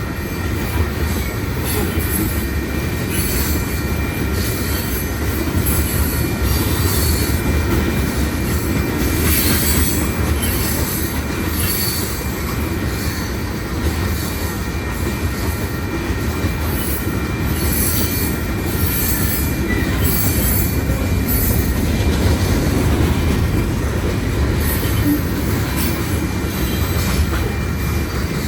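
Freight cars of a BNSF manifest train rolling steadily past at a grade crossing: a continuous loud rumble and rattle of wheels on rail, with thin steady high-pitched wheel squeal over it.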